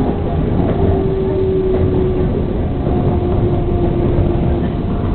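A train running with a steady, loud rumble, with a faint steady whine held above it.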